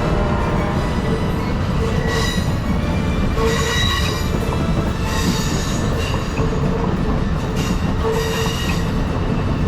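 A train rolling past, steel wheels on rail making a steady heavy rumble, with short high-pitched wheel squeals coming every second or two.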